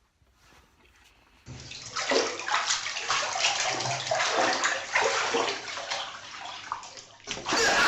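Water splashing and sloshing in irregular surges, starting suddenly about a second and a half in, with a louder, denser rush near the end.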